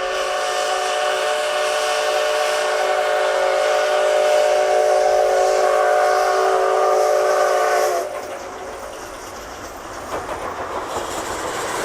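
Steam locomotive C57 180 sounding a long, chord-like blast on its steam whistle that cuts off sharply about eight seconds in. It is followed by the rumble and clatter of the train running on the rails, growing louder toward the end.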